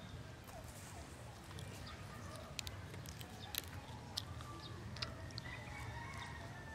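Close-miked eating sounds: wet chewing and sharp lip smacks, several clicks in the middle, as tender pork asado is eaten by hand. Faint bird calls in the background.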